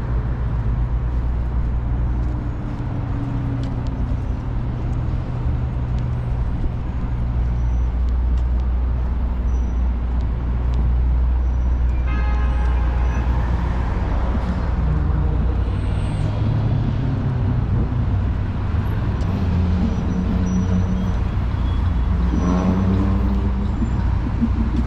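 City street traffic: a steady low rumble of engines and passing vehicles. A short pitched tone stands out about halfway through, and another pitched sound comes near the end.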